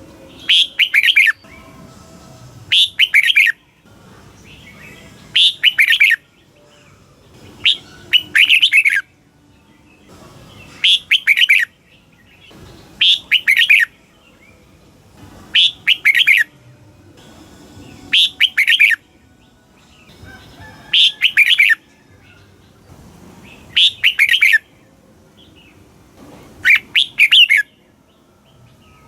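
Red-whiskered bulbul singing: short, bright phrases of a few quick notes, repeated about every two and a half seconds.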